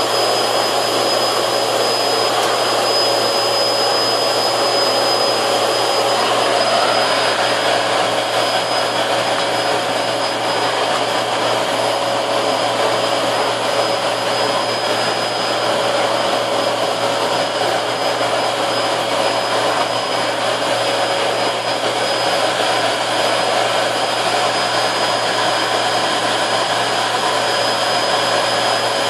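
Dansat 21-litre vacuum cleaner running steadily under test: a constant rush of air with a thin, steady high whine from the motor.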